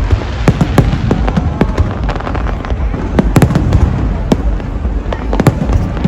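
Fireworks display going off: a dense run of sharp bangs and crackles, several a second, over a constant low rumble of shell bursts.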